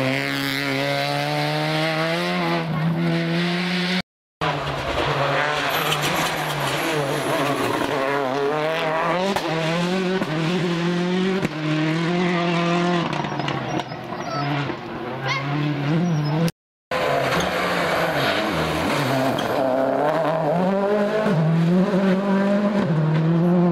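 Rally cars at full throttle on a gravel stage, engines revving up and dropping repeatedly through gear changes and lifts. The sound cuts out twice for a moment between clips.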